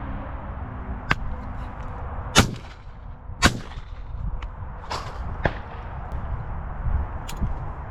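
Shotgun shots: two loud shots about a second apart near the middle, with several fainter sharp cracks before and after them, over low wind rumble on the microphone.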